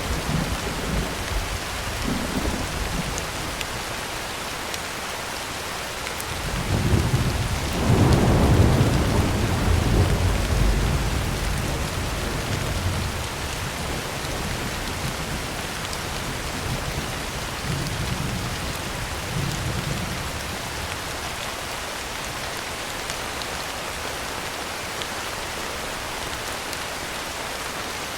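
Heavy rain falling steadily on a tin roof. A long roll of thunder builds about a quarter of the way in and fades over several seconds, and a fainter rumble follows later.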